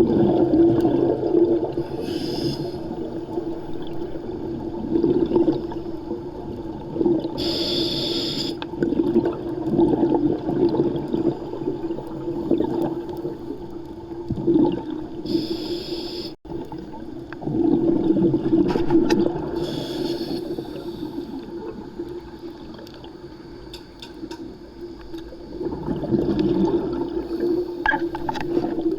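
Underwater sound: a steady low hum with gurgling water, and short hissing rushes of exhaled scuba bubbles every several seconds.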